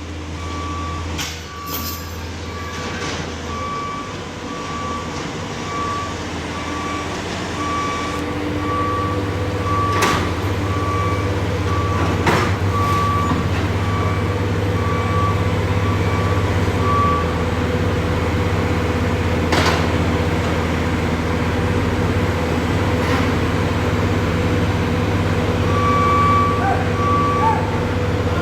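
Skid steer's diesel engine running steadily under load, growing louder, while a backup alarm beeps at an even pace, stopping partway through and starting again near the end. A few sharp clanks sound over it, the loudest about halfway.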